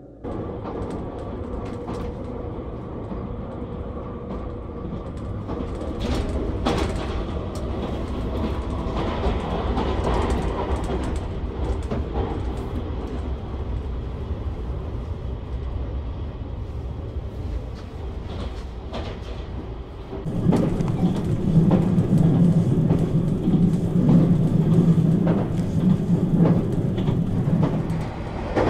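Limited express train running, heard from inside the carriage: a steady rumble with occasional clicks. About 20 seconds in it gets louder, and a steady low hum comes in.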